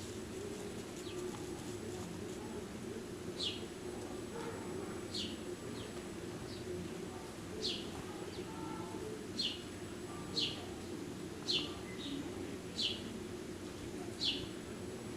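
A garden bird calling again and again: short, high notes that sweep downward, roughly one every second or two, over a steady low background rumble.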